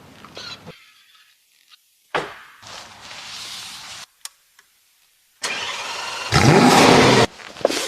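Lamborghini 6.5-litre V12 starting and revving in short bursts that cut off abruptly. The loudest is a rev of about a second near the end.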